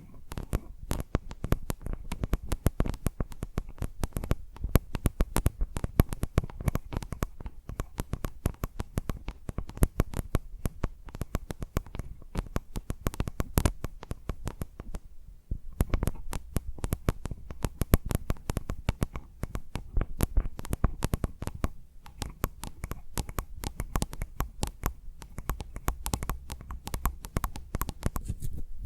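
Fingers tapping and brushing rapidly on a microphone, a dense run of quick irregular taps, each with a deep thud.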